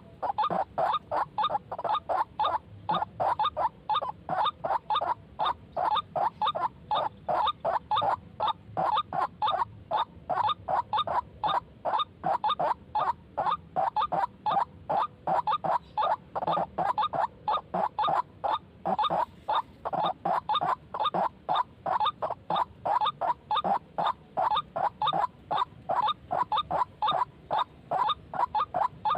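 White-breasted waterhen (ruak-ruak) calls: a rapid, unbroken run of short repeated notes, several a second, at a steady level.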